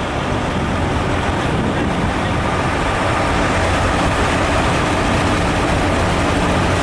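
Heavy truck's diesel engine running, a steady deep engine sound that grows slightly louder.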